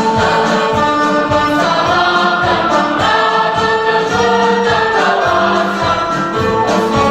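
Choir singing a march song together, the voices held on long notes over an accompaniment with a steady low beat.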